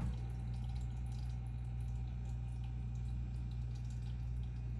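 Aquarium filter running: a steady low hum with the faint trickle and drip of moving water.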